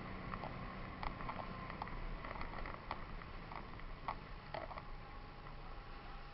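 Steady low hum with a faint high tone, overlaid by irregular small clicks and ticks, a few each second.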